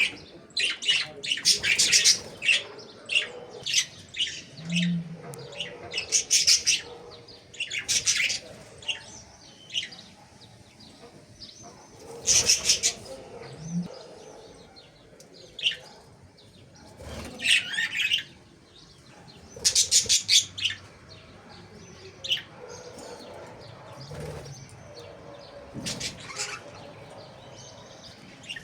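Small cage birds chirping in loud, sharp bursts every second or two, with quieter twittering in between.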